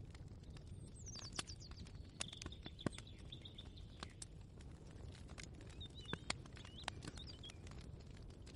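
Faint ambient kitchen soundscape: a steady low hum with scattered light clicks and taps, and a few bird chirps, one short held high note, about a second in and again near six seconds in.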